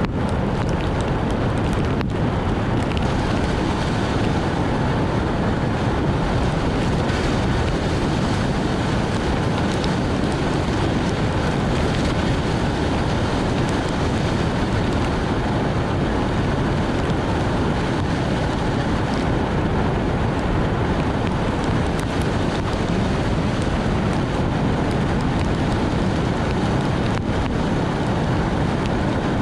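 Steady rushing noise of a car driving on a rain-soaked road in heavy rain: tyre spray on the wet surface mixed with road and wind noise, with a few faint ticks.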